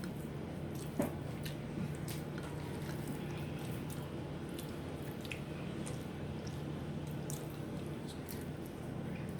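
Eating sounds up close: soft wet squishes and irregular small clicks of chewing and handling food, over a steady low hum.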